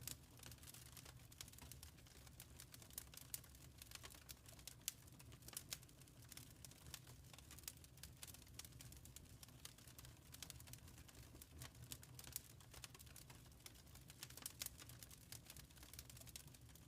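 Wood fire crackling softly: a dense run of small irregular pops and snaps over a faint steady low rumble.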